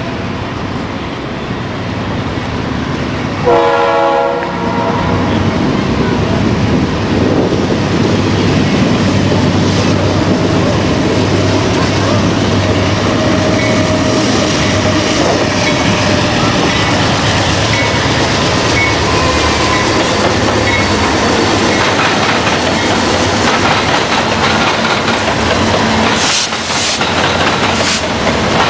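Diesel locomotive horn giving a short blast about four seconds in, then a train passing close by: the steady rumble of locomotive and cars with wheels clattering on the rails, and a few sharp knocks near the end.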